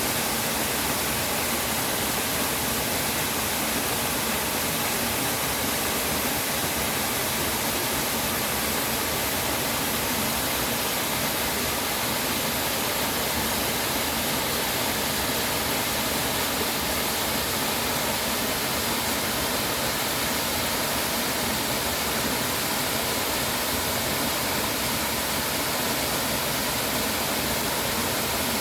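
Water pouring and rushing steadily, as at a waterfall: an even, unbroken hiss with no change in level.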